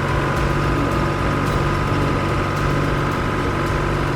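A vehicle engine running steadily at idle, an even hum that holds the same pitch.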